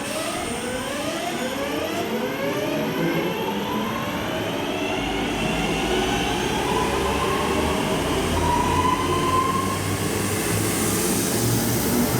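Passenger train accelerating through the station, its drive whine rising steadily in pitch over a low rumble, with a hiss building near the end.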